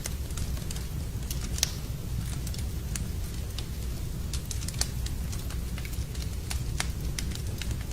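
Wood fire burning in a fireplace, crackling with scattered sharp pops over a low, steady rumble.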